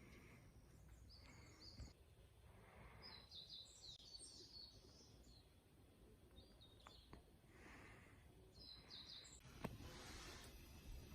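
Faint songbird chirps in short clusters over quiet outdoor ambience, with a single soft click near the end.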